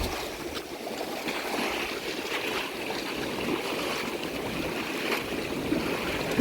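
Irrigation canal water gushing and churning as it wells up and pours out, a steady rushing sound.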